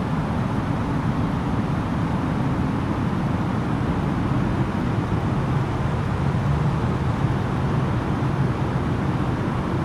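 Steady cabin noise inside an Airbus A330-900neo airliner in descent: an even, low rush of airflow and engine noise that does not change.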